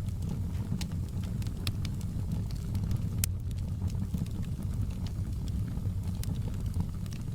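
Wood fire crackling in a fireplace: a steady low rumble of burning with irregular sharp pops and snaps, the loudest pop about three seconds in.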